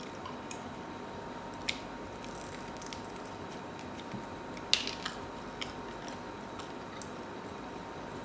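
A person chewing and biting food close to the microphone, with scattered short wet clicks and smacks, the loudest about four and a half seconds in. A faint steady tone hums underneath.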